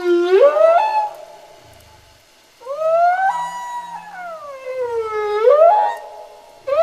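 Whale calls: long cries that glide in pitch, each with many overtones. One rises in the first second, a longer one from about three seconds in rises, falls and rises again, and a third starts right at the end.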